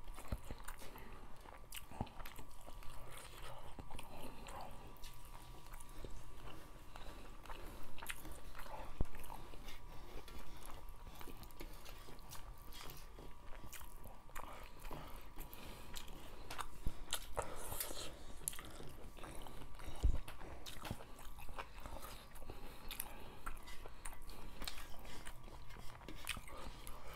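Close-miked eating sounds of two people eating rice and fish soup by hand: wet chewing and lip smacks, with many small clicks and scrapes of fingers working the rice against metal plates. A faint steady hum runs underneath.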